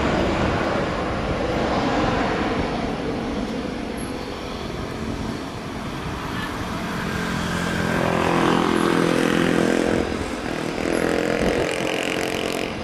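Jet airliner engine noise, a steady rush with an engine whine coming in about seven seconds in and again near the end.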